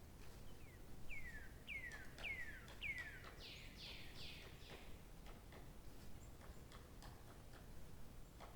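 A songbird singing a run of about five clear whistled notes, each sliding downward, followed by a few broader, louder notes. The song falls away about halfway through, leaving faint ticks and a background hush.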